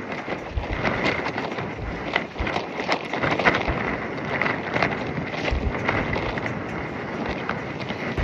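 Nylon tracksuit fabric flapping and snapping rapidly and irregularly in strong gusty wind, with wind buffeting the microphone.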